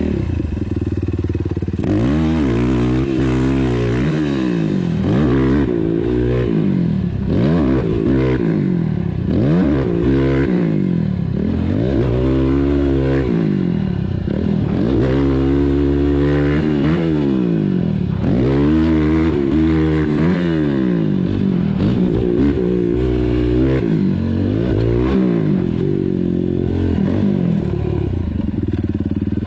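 ATV engine idling steadily for about two seconds, then revving up and falling back over and over, each rise lasting a second or two.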